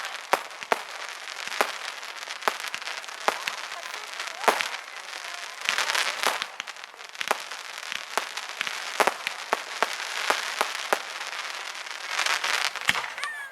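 Fireworks display: a steady run of sharp bangs from bursting shells with crackling between them. The crackle swells about halfway through and again near the end.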